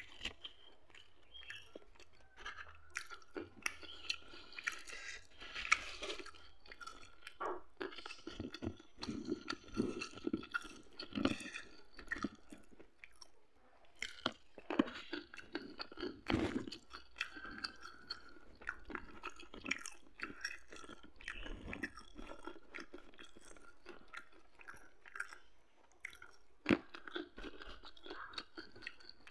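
Close-up chewing of a handful of rice with side dishes eaten by hand, with irregular sharp mouth and teeth clicks between bites.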